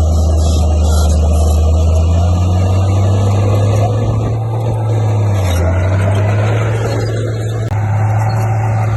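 Komatsu D58P bulldozer's diesel engine working under load. Its pitch rises about two seconds in, sags briefly past the middle, then picks back up.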